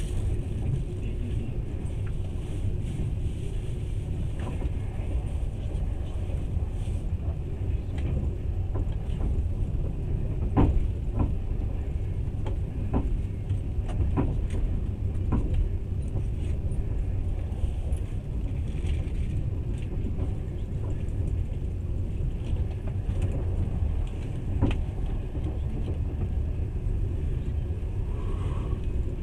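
Passenger train running, heard inside the carriage: a steady low rumble with occasional sharp knocks and clicks, bunched about ten to fifteen seconds in.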